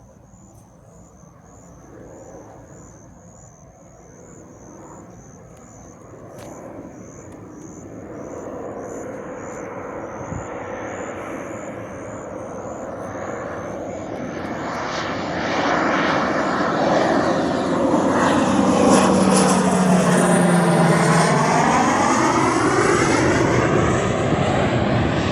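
A military training aircraft doing circuits approaches and flies low past, its engine noise building steadily for about 15 seconds. It is loudest over the last eight or nine seconds, with a sweeping change in tone as it passes close. A high, warbling repeated chirp runs through the first half.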